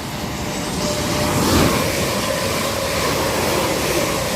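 Class 350 Desiro electric multiple unit passing through, its wheel and rail noise swelling to a peak about a second and a half in and staying loud, with a steady whine over it.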